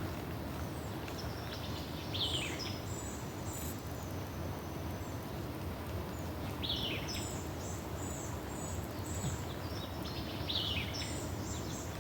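Songbirds singing: a few falling phrases about four seconds apart and quick runs of short high notes, over a steady low rushing noise.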